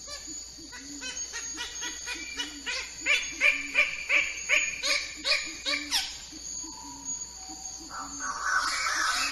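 Bird-of-paradise calling: a long series of repeated notes, about three a second, louder through the middle. Near the end a denser, higher chattering begins.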